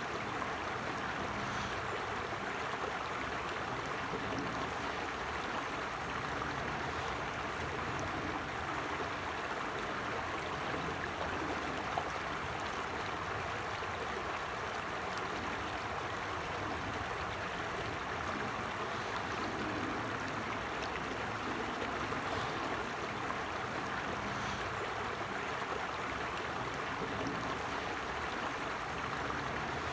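Creek water flowing and babbling over stones, a steady even rush with no let-up.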